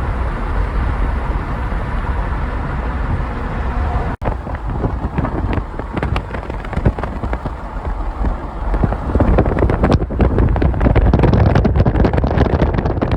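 Steady road and engine rumble from a moving vehicle, with wind buffeting the microphone in gusts that grow stronger over the last few seconds.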